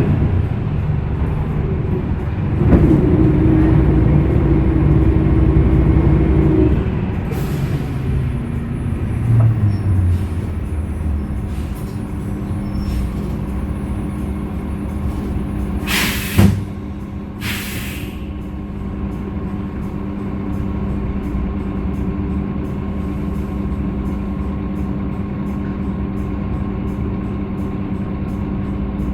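Hyundai Green City CNG bus's C6GB natural-gas engine winding down from a loud pull as the bus slows. Two short loud hisses of released air come about halfway through. The engine then idles steadily with a faint regular ticking.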